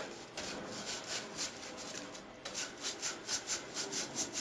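A scrub brush scrubbing a bird cage's bars, in quick back-and-forth strokes about five a second that grow louder about halfway through.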